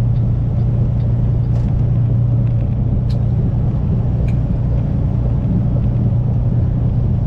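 Kenworth semi truck's diesel engine and road noise while driving: a steady low drone with no change in pitch.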